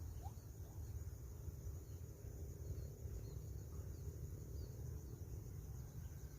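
Rice-field ambience: a steady high buzz of crickets and other insects, with a few faint, scattered high chirps over a low rumble.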